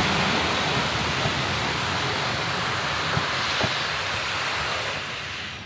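Railway passenger coaches rolling past on the track: a steady rolling noise of wheels on rails, with a few sharp wheel clicks. It eases off near the end as the last coach passes and the train draws away.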